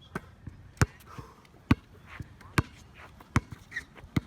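Basketball being dribbled: five sharp, evenly spaced bounces, a little more than one a second.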